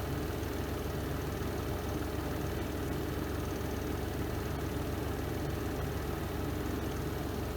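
Spin tub of a Renova semi-automatic twin-tub washing machine running its spin cycle: a steady, even hum.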